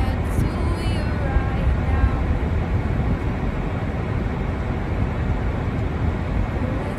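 Steady low rumbling outdoor noise, with a few faint distant voices in the first couple of seconds.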